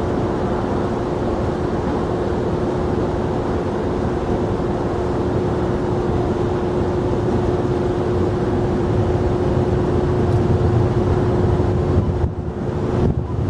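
Jet airliner engines running as a steady drone, with a held whine and a low rumble that builds toward the end. In the last second or so, wind buffets the microphone.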